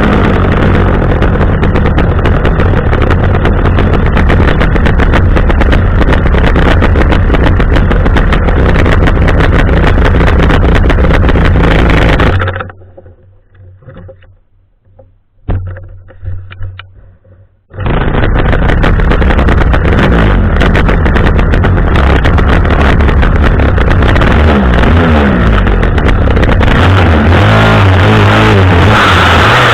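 Chainsaw engine on a pole running loudly and steadily, very close to the microphone. It cuts out abruptly about twelve seconds in, stays nearly silent for about five seconds, then starts running again just as suddenly, its pitch rising and falling near the end.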